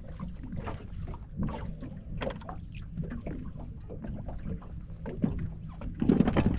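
Water slapping and splashing against a small boat's hull, with irregular small knocks, and a louder thump about six seconds in.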